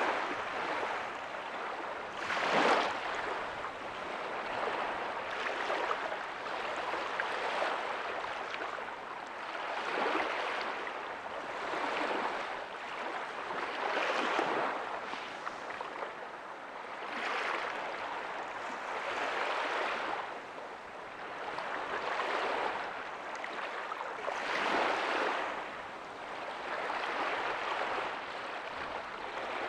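Small ocean waves breaking softly on a beach, a steady wash of surf that swells with each wave every two to three seconds.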